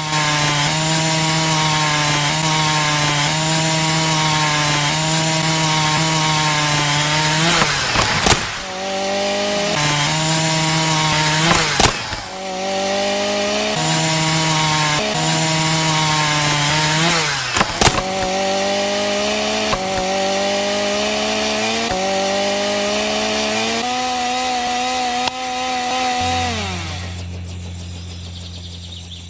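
Small motor-driven saw running and cutting wood, its pitch wavering and slowly rising as the load changes, with brief sharp breaks a few times before it dies away near the end.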